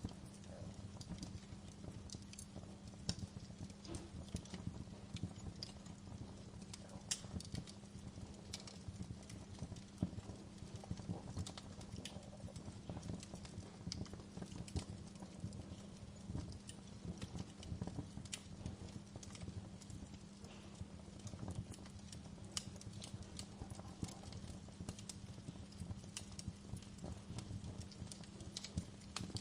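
Wood fire burning in a fireplace, crackling with frequent irregular pops and snaps over a low steady rumble of the flames.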